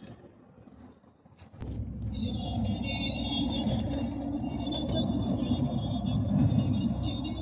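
Quiet at first, then about a second and a half in a loud, steady low rumble cuts in abruptly, with thin high tones wavering above it.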